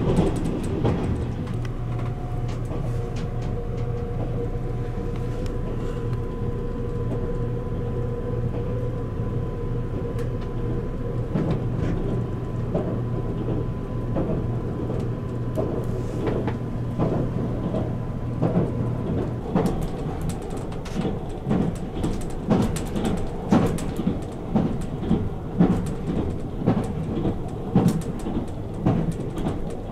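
JR Kyushu Nichirin limited express train running, heard from inside the compartment: a steady rumble and hum with faint held tones. About twenty seconds in, a run of irregular knocks and thumps sets in.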